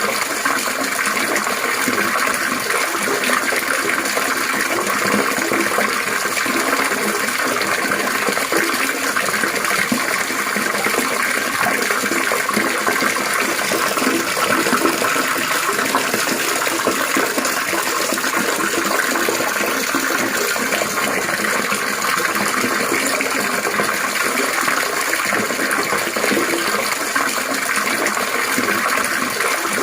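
Water splashing and trickling steadily, a continuous rushing patter with no breaks.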